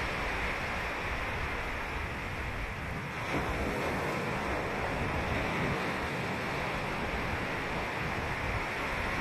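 Ocean surf: waves breaking and washing on a sandy beach, a steady rushing noise with no pause.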